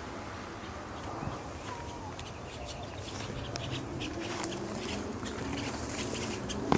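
Rustling and snapping of leaves and twigs underfoot in forest undergrowth, with scattered sharp clicks in the middle. A faint, low wavering sound comes in during the second half.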